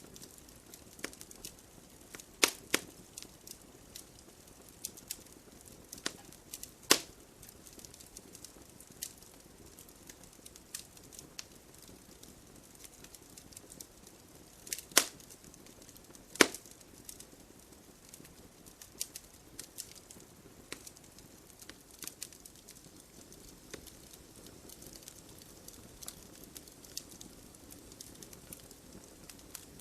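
Wood fire in a fireplace, logs crackling with irregular sharp pops over a soft hiss of flame; a handful of louder pops stand out among the smaller crackles.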